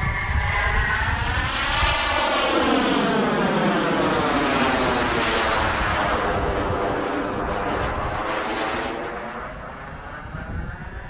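Radio-controlled model jet flying past, its engine making a loud rushing whine whose tone sweeps up and down as it goes by, then fading near the end.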